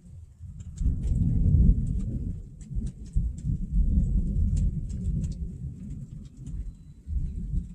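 Thunder rumbling through a heavy storm: a deep rumble that swells about a second in and rolls on for several seconds, with scattered light ticks above it.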